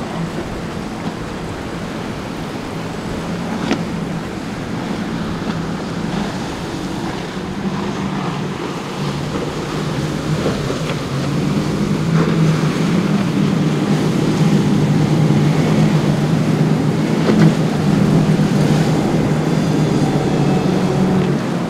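Boat engines running with a steady low drone that grows louder partway through, over the wash of waves and wind, with a few sharp knocks.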